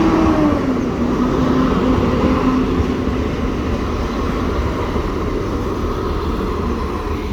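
Diesel passenger train passing close by the level crossing. Its engine note drops slightly in pitch about half a second in, over a steady running rumble that slowly fades.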